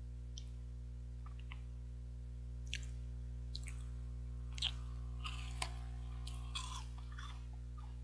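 A person biting into and chewing a 21-grain chocolate bar, with irregular crisp clicks and crunches from about two and a half seconds in until near the end. A steady low hum runs underneath.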